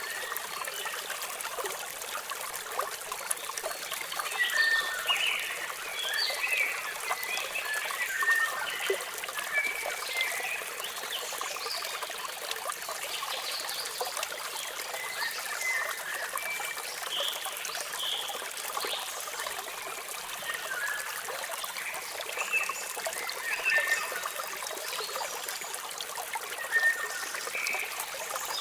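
Steady rushing water of a waterfall, with birds chirping now and then over it in short, high calls.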